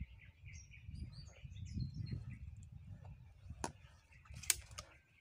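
Birds chirping in short high calls over a low rumble, with two sharp clicks late on, the second the louder.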